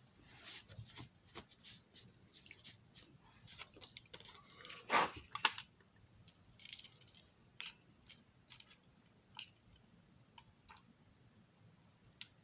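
Small hard parts being handled: a run of faint clicks, taps and scraping, with one louder scrape about five seconds in, thinning to a few isolated clicks.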